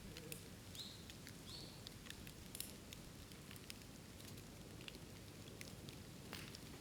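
Burning bamboo crackling in a bonfire: scattered sharp pops and snaps over a low steady rumble of the fire. Two short high chirps come about a second in.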